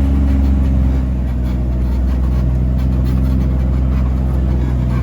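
An off-road 4x4's engine running steadily at low speed while crawling a trail, heard from inside the cab, with its tone shifting about two seconds in.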